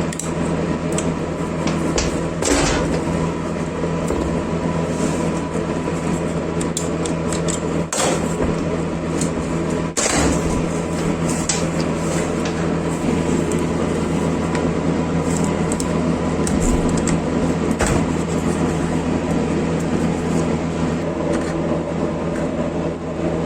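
An electric motor running steadily at one speed, with a few sharp clicks or knocks.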